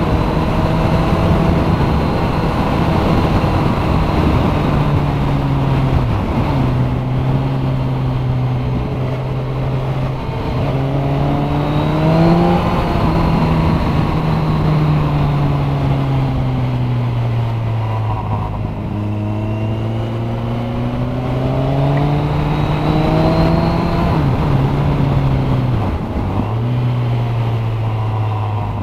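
Sport motorcycle engine running at road speed, its pitch rising and falling with the throttle and dropping suddenly four times. Wind rushes across the microphone throughout.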